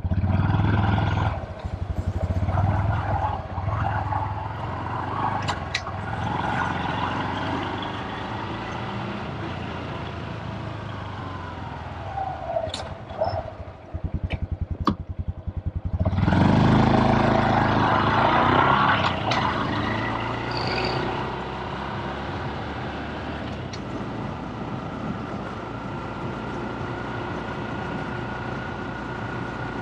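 Honda Super Cub's single-cylinder four-stroke engine on the move: pulling away loudly, running steadily, easing off about twelve seconds in, then revving up hard again around sixteen seconds in before settling into a steady cruise.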